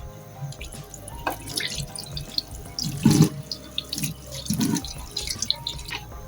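Water from a kitchen tap splashing into a sink, with irregular splashes and small clinks as something is rinsed under it.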